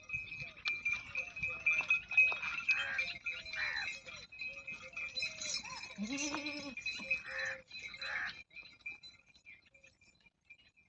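Several Jakhrana goats bleating over one another in short calls, with one deeper, longer bleat about six seconds in. A steady high tone runs underneath, and the calls stop about two seconds before the end.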